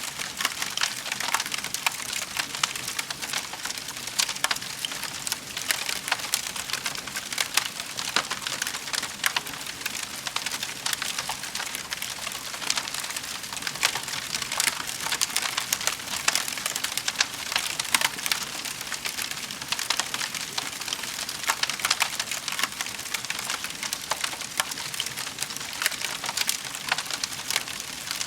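Wood fire in a fireplace crackling: a steady, dense patter of small snaps with frequent louder pops.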